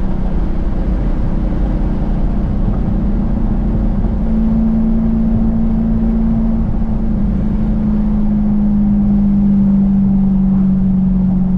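Dodge Challenger's engine and exhaust running at a steady cruise on the road, a continuous low drone whose pitch rises a little about four seconds in and again a few seconds later.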